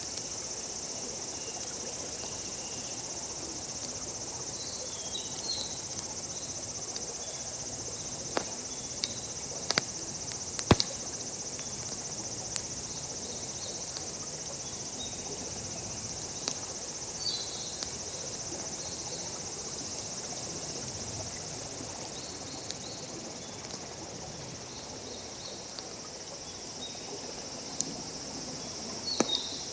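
Steady high-pitched chorus of crickets trilling, with a wood campfire crackling: scattered sharp pops and snaps, a few louder ones about a third of the way in and near the end.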